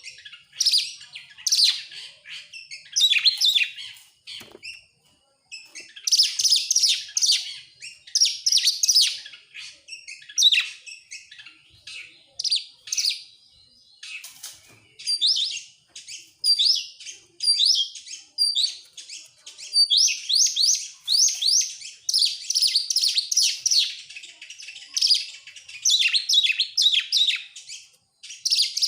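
Oriental magpie-robin (kacer) singing: phrase after phrase of quick high notes and rising whistles, with short pauses between them.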